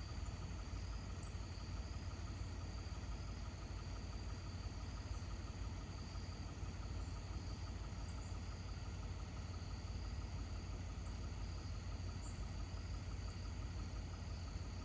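Crickets chirring steadily, with faint short chirps above them, over a low steady rumble.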